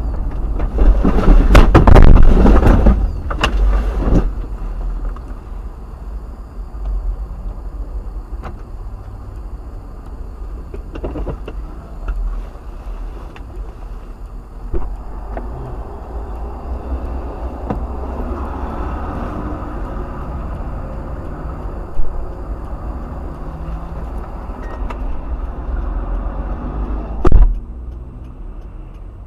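Car dash camera audio: a loud clatter of impacts and scraping about a second in, then steady low engine and road rumble with a few single knocks.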